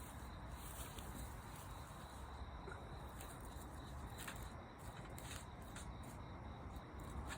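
Quiet outdoor ambience: a low steady hiss with a few faint, scattered sharp clicks.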